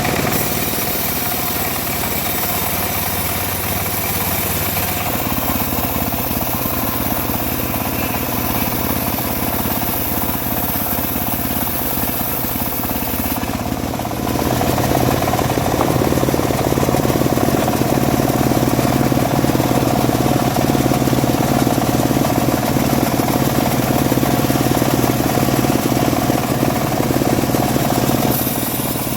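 Engine-driven homemade bandsaw mill running steadily while sawing teak. It gets louder and fuller about halfway through and drops back just before the end.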